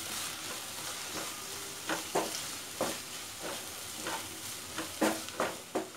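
Onion masala frying and sizzling in a non-stick kadai while a wooden spatula stirs it, scraping the pan in a series of short strokes from about two seconds in.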